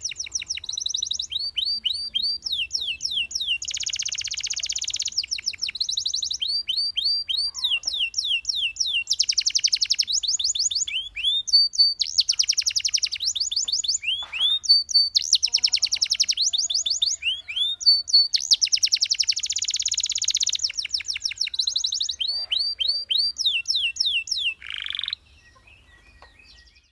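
Domestic canary singing: fast rolling trills alternating with runs of repeated down-sweeping whistled notes. The song stops abruptly near the end.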